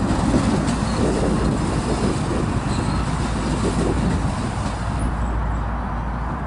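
Metra commuter train rolling past on the rails, a steady rumble of wheels and cars that eases slightly near the end.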